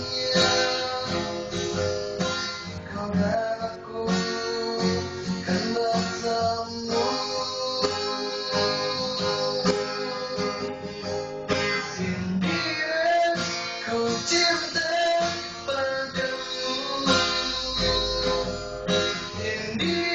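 Acoustic guitar strummed and plucked, with a voice singing along.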